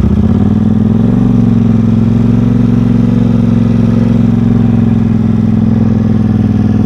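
Vehicle engine picking up revs over the first second or so, then running at a steady speed.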